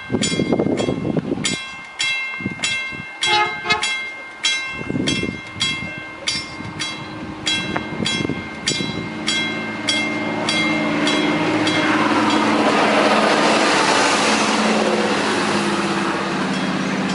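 A warning bell rings rapidly, about three strikes a second, until about nine seconds in. Then a train approaches: its engine drone and rail noise build to a peak a few seconds later and stay loud.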